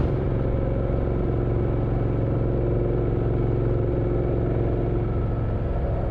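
Motorcycle engine running at a steady pace under way, with an even, unchanging note.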